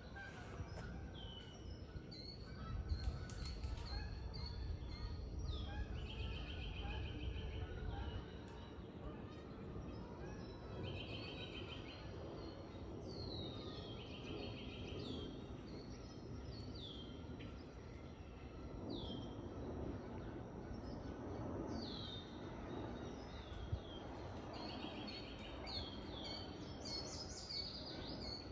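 Songbirds calling repeatedly in woodland: short notes that slide downward, mixed with buzzy trills. A low rumble runs under them for the first several seconds.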